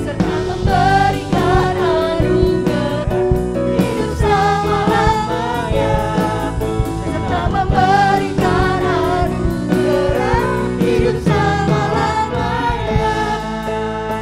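Worship band playing a gospel song with sung vocals over keyboard and a steady beat.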